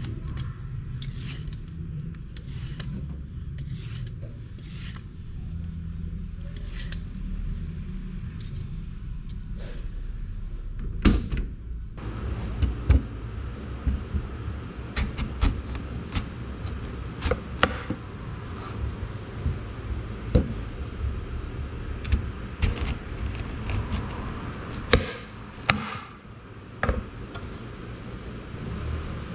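Kitchen preparation noises: irregular clicks and knocks of utensils and food being handled, over a low steady hum.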